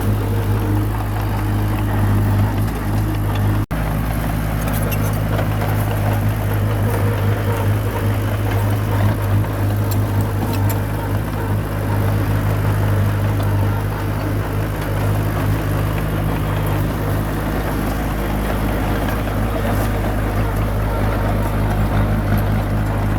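Bulldozer's diesel engine running steadily under load, with faint clicks and clatter over it. The sound cuts out for a split second about four seconds in.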